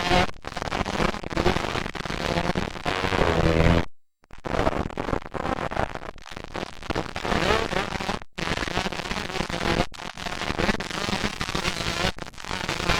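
Motocross bike engines revving hard with a raspy crackle as they run on the track. The sound breaks off abruptly about four seconds in and again past the eight-second mark.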